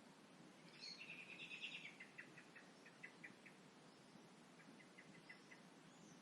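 A songbird singing faintly at dusk. About a second in comes one phrase: a quick run of notes that breaks into a slowing series of separate notes. A shorter run of notes follows near the end.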